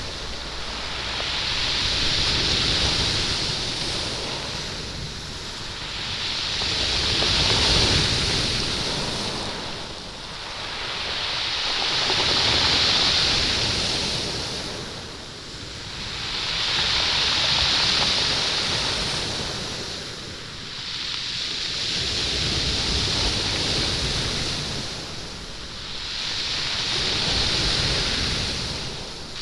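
Sea waves washing up a stony beach, the stones rolling and rattling as the water runs over them and drags back. The sound swells and fades in surges about every five seconds.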